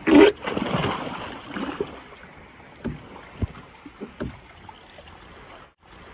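A person jumping into the sea: a loud splash right at the start, then water churning and settling over the next second or so, followed by light sloshing and a few small knocks.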